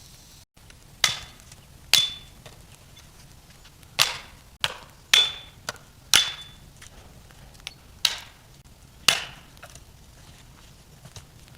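Seven hard blows of a metal-headed tool, roughly a second apart with a short pause after the second, plus a couple of lighter taps; several blows leave a brief metallic ring.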